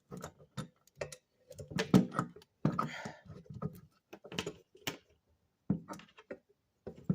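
Irregular metallic clicks, knocks and clinks of a C-clamp and hand tools being handled and set against a brake caliper, with short pauses between.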